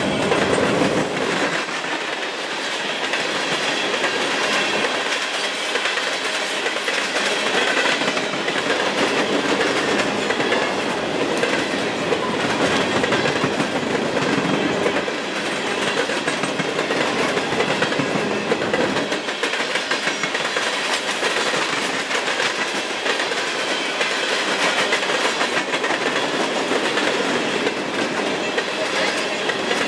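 Freight train's hopper cars rolling past close by: a steady rumble of steel wheels on rail with a running clickety-clack of the wheels over the rail joints.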